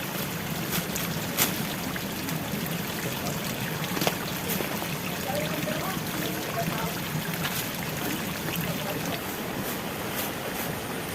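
Steady rushing noise of running water, with two sharp clicks, one about a second and a half in and one about four seconds in.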